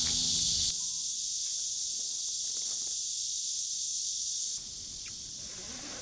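Steady hiss of heavy rain, with background music ending under a second in. The hiss drops a step in level about two-thirds of the way through.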